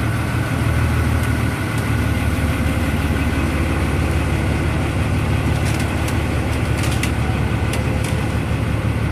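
Ferry's diesel engine running steadily, a low drone heard from aboard the boat, with a few faint clicks in the second half.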